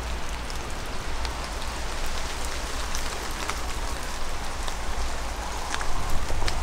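Rain falling steadily, with many separate raindrops ticking sharply over an even patter and a low steady rumble underneath.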